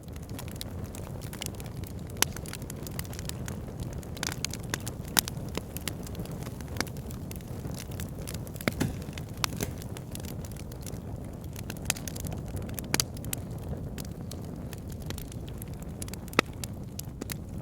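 Fire pit fire crackling: irregular sharp pops and snaps, a few louder than the rest, over a steady low rush of the flames.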